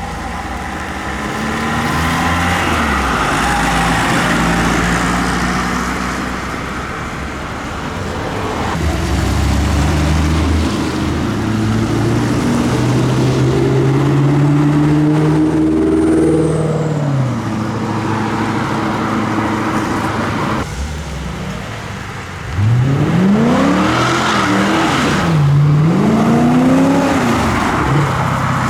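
Car engines driving off one after another, pitch climbing as each pulls away and passes. About three-quarters of the way in, one engine is revved hard several times in quick succession, its pitch shooting up and falling back each time.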